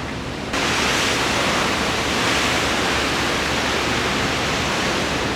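Steady rushing noise of wind and sea on a ferry's open deck, starting abruptly about half a second in.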